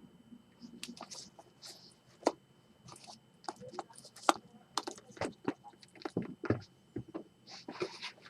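Handling noises from sneakers and a cardboard shoebox: an irregular scatter of sharp clicks and knocks with brief rustling.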